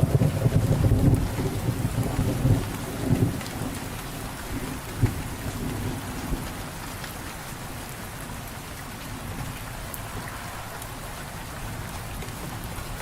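Steady rain, with a low rumble of thunder over the first few seconds that dies away.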